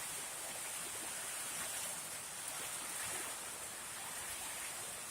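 Heavy rain pouring down steadily, an even, continuous hiss.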